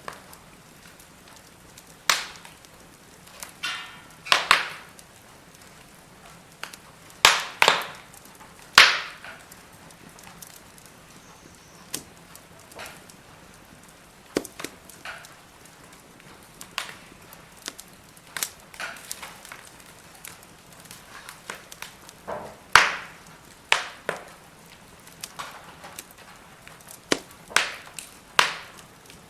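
Firewood burning in a fire pit, crackling with irregular sharp pops and a few louder snaps over a faint hiss.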